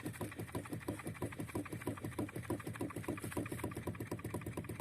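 Nissan Qashqai steering shaft knocking and rattling at its joint as the steering wheel is rocked left and right: a fast, even run of short knocks, about eight a second. The knocks are the sign of play in the steering shaft joint.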